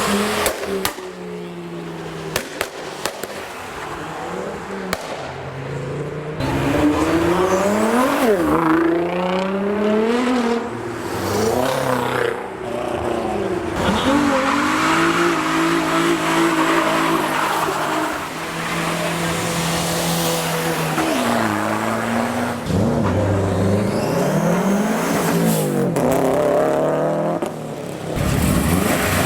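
Modified cars' engines revving hard and accelerating, the pitch climbing and dropping again and again as several cars pull away one after another.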